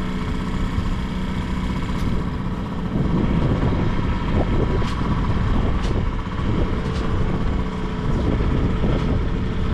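Small outboard motor idling in neutral, freshly started after a choked cold start. It runs steadily and grows louder and rougher about three seconds in.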